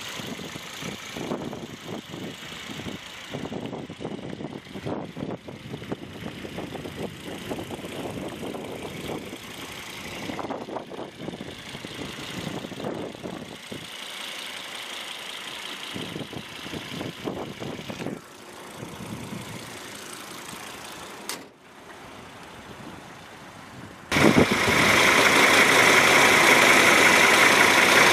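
2006 Volvo XC90's 2.5-litre turbocharged inline five-cylinder engine idling, with uneven noise over it. About 24 seconds in, a much louder steady noise cuts in abruptly.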